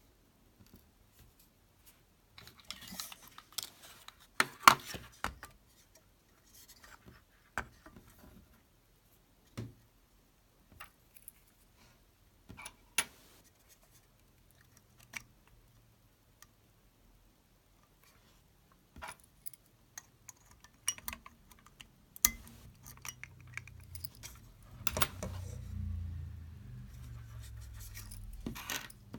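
Small metal parts and tools being handled, with scattered clicks and clinks. A low hum comes in about two-thirds of the way through and carries on.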